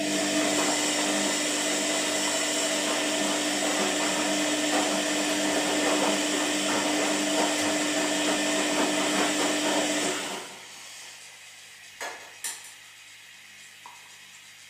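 Washing machine running, a steady motor hum over a wash of noise, that stops about ten seconds in. Two sharp clicks follow a couple of seconds later.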